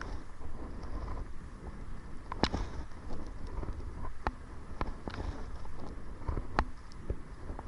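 Wind buffeting the microphone with a steady low rumble, while water splashes and knocks against the kayak and paddle at irregular moments as it is paddled into a headwind.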